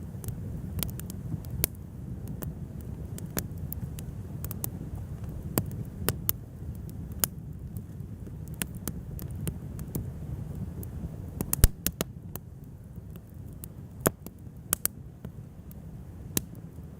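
Wood fire crackling, with irregular sharp pops over a low rumble; the loudest pop comes a little under twelve seconds in.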